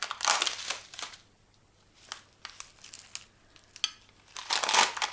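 Crinkling plastic gift packaging being handled: a burst of rustling in the first second and another near the end, with small clicks and rustles between.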